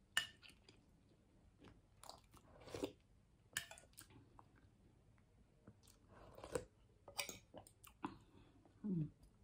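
A person chewing food close to the microphone: soft wet smacks and mouth clicks at irregular intervals, with a brief hummed voice sound near the end.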